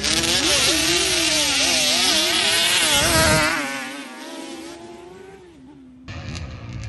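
Drag-racing quad engines at high revs, their pitch wavering up and down over a hissing rush, then fading away about three and a half seconds in. A different sound cuts in abruptly near the end.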